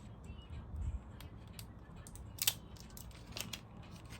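A few light clicks and taps from small parts being handled on a sewing machine during seal replacement, with a soft low bump about a second in and the sharpest click about halfway through.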